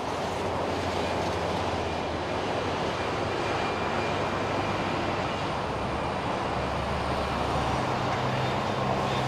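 Steady rumble of an approaching SP1900 electric multiple unit train, with a low hum that steps up in pitch about seven seconds in.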